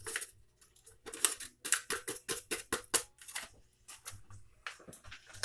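Ranch dressing mix packet crinkling and rustling as it is handled and opened: a run of short, sharp crackles with brief pauses between them.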